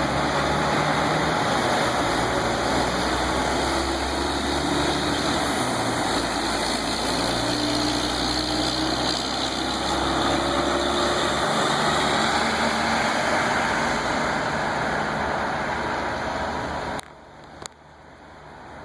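Motor vehicle engine idling under a loud, steady rushing noise, which cuts off suddenly near the end, followed by a couple of clicks.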